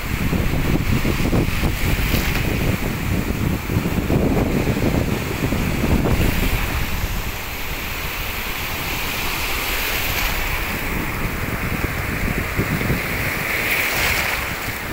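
Strong sea surf breaking and washing on the beach, with wind buffeting the microphone. The rumble eases a little about halfway through.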